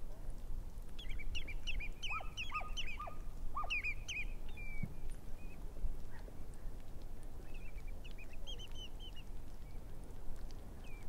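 Waterbirds calling: two flurries of quick, high, repeated notes, the first with four downward-sliding calls mixed in, over a steady low wash of background noise.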